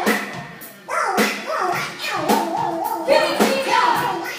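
Live band music with a singer and drums.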